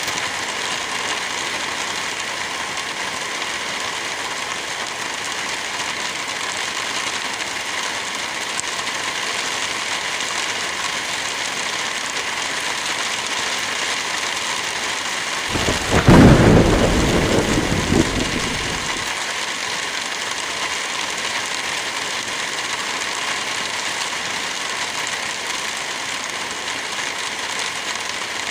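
Steady rain with one roll of thunder a little past halfway, loudest at its start and dying away over about three seconds.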